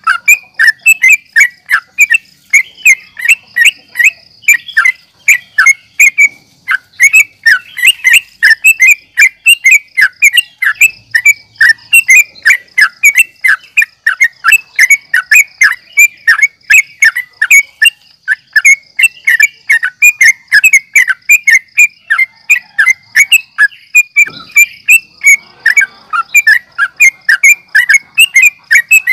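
Sooty-headed bulbul (trucukan) singing in full, unbroken song: a fast run of short, repeated whistled chirps, about two to three a second, over a steady faint high tone. This is challenge song of the kind used to provoke other bulbuls into answering.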